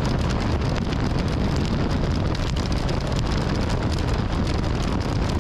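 Wind rushing over the microphone and a motorcycle running at road speed, a steady loud rush that cuts off abruptly.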